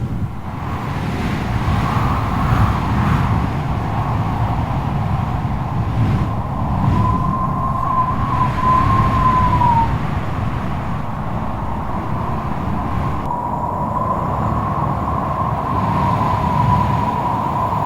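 Strong wind blowing, with a low rumble and a high whistling howl that wavers around one pitch. The whistle comes in about seven seconds in, fades near ten seconds, and returns from about thirteen seconds on.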